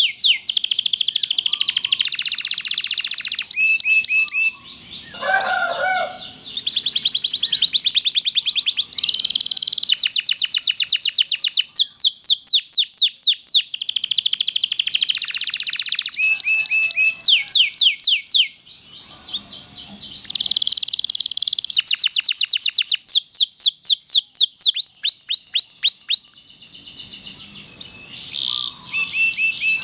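Domestic canary singing long, rapid rolling trills and fast series of repeated sweeping chirps, with short breaks between phrases.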